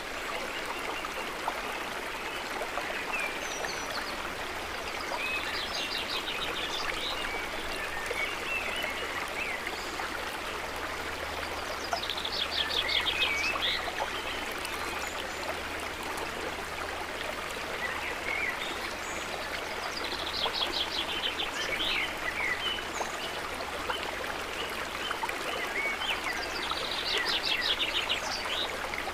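Steady gurgling of trickling water. A high, rapid trilling call, likely a bird's, comes over it four times, each lasting about a second, roughly every seven seconds.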